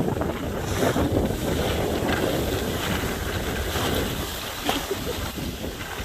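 Wind buffeting the microphone: a steady, rumbling noise with irregular gusts.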